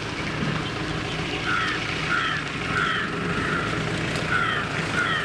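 A bird calling repeatedly: about six short falling calls, roughly half a second apart, starting about a second and a half in, over a steady outdoor background noise.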